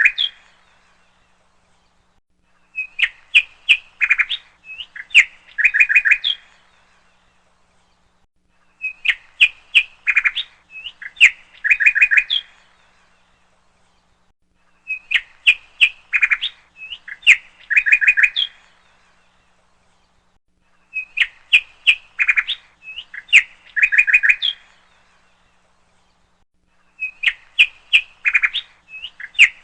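Bird chirps played as a repeating loop: the same burst of quick, high chirps, lasting about three and a half seconds, comes back every six seconds with silence between.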